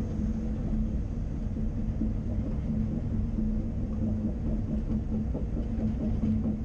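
Caterpillar 330 Next Generation excavator's diesel engine running steadily, a continuous low rumble with a steady hum.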